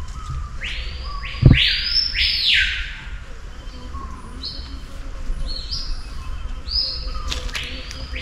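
A bird giving a series of harsh calls, each rising and falling, three loud ones close together in the first few seconds and softer ones after. A single low thump about a second and a half in.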